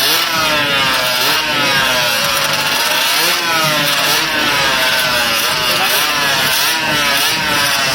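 Drag-racing engine under hard acceleration, its pitch climbing and dropping back again and again as it is run up through the gears.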